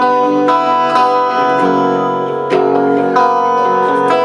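Guitar playing an instrumental passage of a song: strummed chords ringing on with fresh strokes every second or so.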